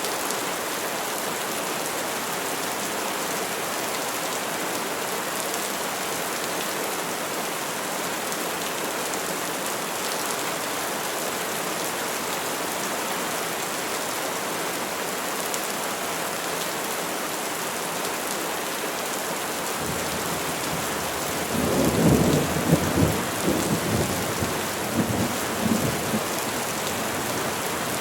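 Steady rain falling on trees, with a low roll of thunder that swells about two-thirds of the way through and rumbles on for several seconds.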